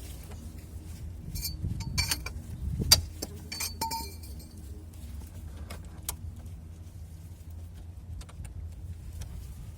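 Metal tools and parts clinking and rattling as they are handled, in a cluster of ringing clinks about one to four seconds in, with one sharp knock near three seconds, over a steady low hum.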